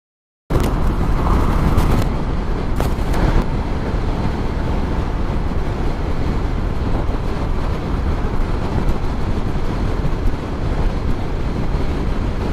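Steady wind and road noise with engine rumble from a moving motorcycle, starting abruptly about half a second in, with a few brief clicks in the first few seconds.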